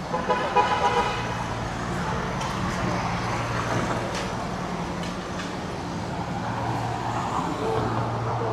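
City street traffic: a steady low engine hum from nearby vehicles over general road noise, with a short pitched call or tone in the first second.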